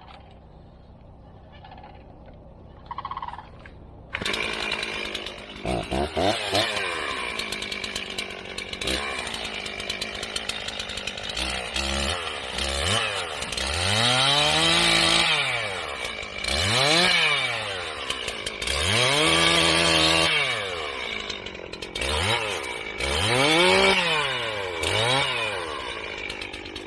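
Chainsaw starting up about four seconds in, then revving up and falling back to idle over and over, about seven times, while cutting through thick Mexican sunflower stalks.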